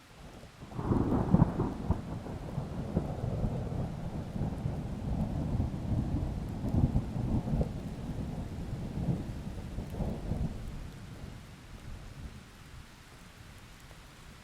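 A long peal of thunder rolling over steady rain. It breaks in about a second in, at its loudest near the start, rumbles on with flickering swells for some ten seconds, then fades away, leaving the soft rain hiss.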